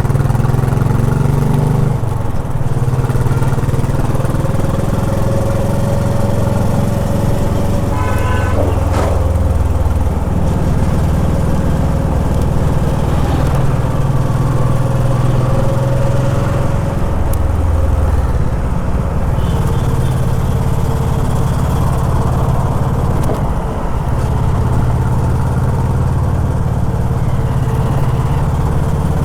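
Honda H'ness CB350's single-cylinder engine running in city traffic, its note shifting up and down several times with gear changes and throttle. A vehicle horn toots briefly about eight seconds in.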